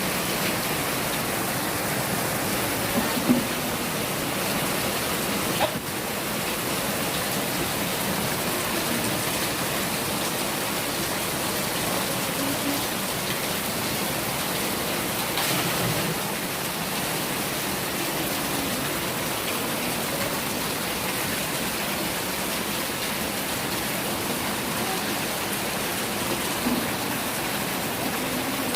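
Steady rain falling, an even wash of water noise, with a few brief knocks scattered through it.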